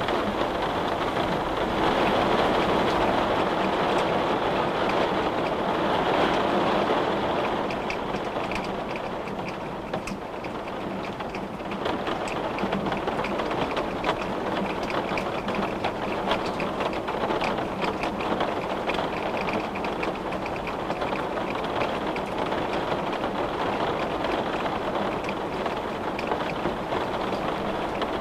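Steady rain falling by a window, with the ticking of separate drops throughout. A louder rushing swell for the first several seconds eases off after that.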